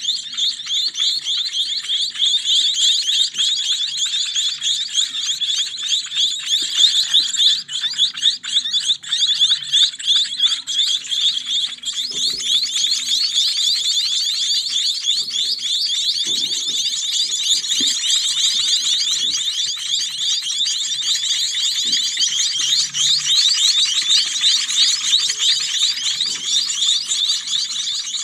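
A group of young munia nestlings chirping continuously, a dense shrill chorus of rapid overlapping high calls.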